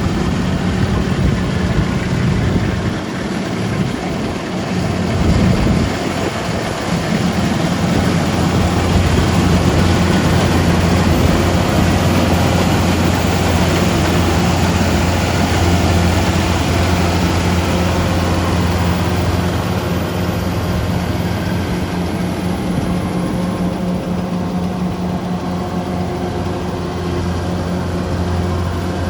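Rice harvesting machine's engine running steadily, a constant low hum under a dense mechanical noise.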